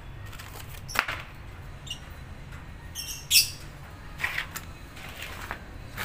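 A small bird gives a few short high chirps about three seconds in, among scattered sharp clicks and knocks from work on an old wire bird cage.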